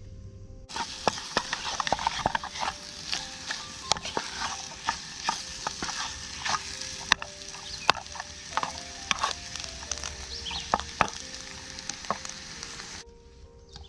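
Breakfast food sizzling in a frying pan over a campfire, with frequent sharp clicks and scrapes of a utensil against the pan as it is stirred and turned. The sizzle starts about a second in and cuts off suddenly about a second before the end.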